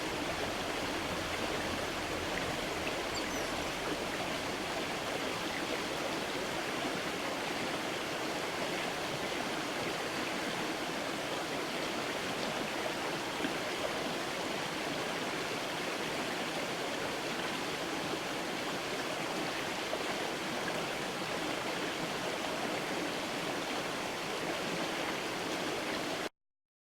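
Steady rushing and burbling of a mountain creek flowing over stones, which cuts off abruptly near the end.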